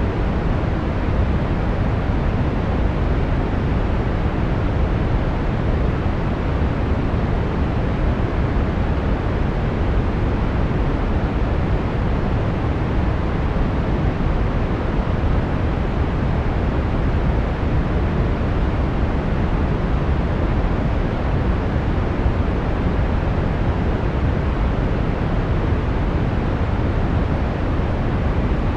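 Brown noise: a steady, even rumbling hiss, strongest in the bass and fading toward the treble, with no changes.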